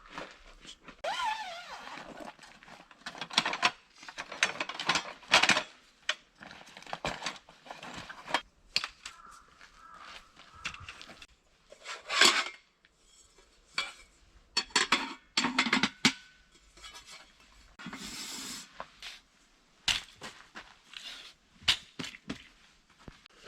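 Irregular clatter of handled dishes and utensils: scattered knocks and clinks with rustling between, the loudest about five and twelve seconds in.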